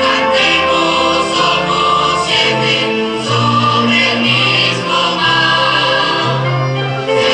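Music with several voices singing together in long held chords over a low bass line.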